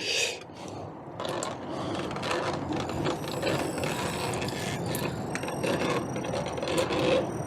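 Hand tools working on a car's front brake caliper: continuous rapid mechanical clicking and rattling, starting about a second in.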